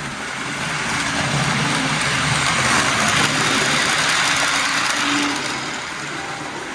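HO scale Mantua Tyco Alco C430 model locomotive running on the track with its train of freight cars: a steady motor whir and wheels rolling on rail, growing louder about a second in and easing off near the end as the train passes.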